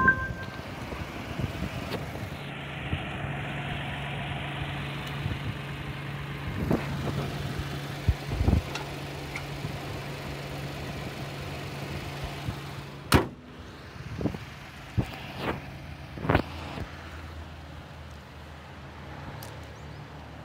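Honda Today's MTREC three-cylinder engine idling steadily with the bonnet open. About 13 seconds in a single sharp bang, the bonnet being shut, after which the idle sounds lower and more muffled. A few lighter knocks follow.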